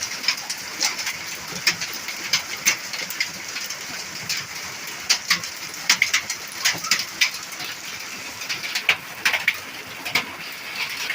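Hailstones striking a truck's metal body during a hard rain: sharp, irregular pops, several a second, over the steady hiss of the rain.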